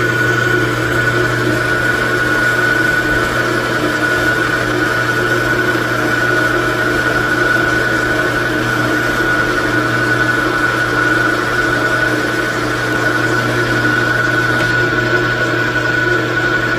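Metal lathe running steadily while turning a metal stud with an insert cutting tool: a constant hum with a steady high-pitched whine.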